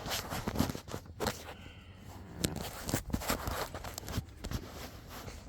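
Scattered light knocks, clicks and rustling at an irregular pace: a person moving about and handling parts inside a pickup's cab.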